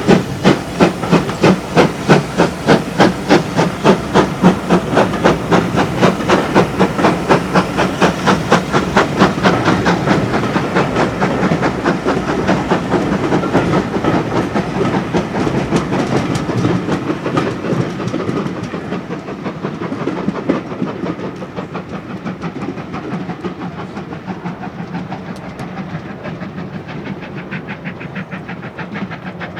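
Steam locomotive working under load, its exhaust beating evenly at about two to three beats a second, then fading away as the train draws off.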